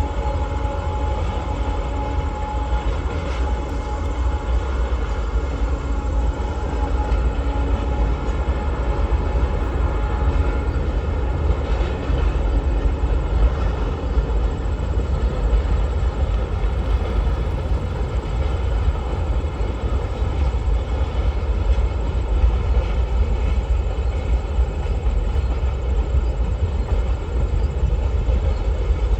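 Long freight train rolling past, a steady heavy rumble of wagons on the rails. A faint steady tone sits over it for roughly the first half.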